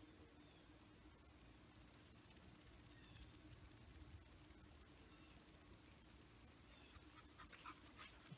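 Faint, steady high-pitched insect trill, rapidly pulsing, that grows a little louder about two seconds in.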